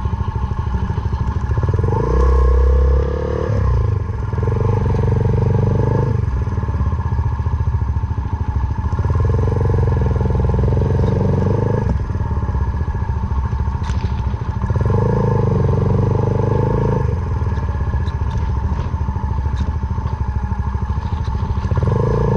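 Single-cylinder four-stroke motorcycle engine, a Suzuki Van Van 125 with a full aftermarket exhaust, running at low speed on a rough off-road track. A stronger, higher engine note comes in for a second or three at a time, several times over.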